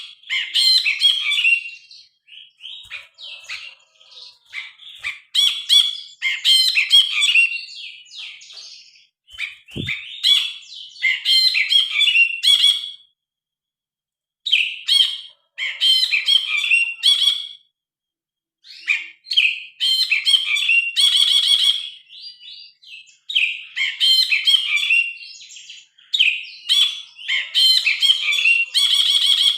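Ashy bulbul (brinji kelabu) singing loudly and continuously in bursts of varied, chattering whistled phrases, with short pauses between them. A brief low knock sounds about ten seconds in.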